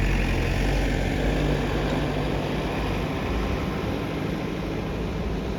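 A car's engine running with a steady low hum under a broad rushing noise.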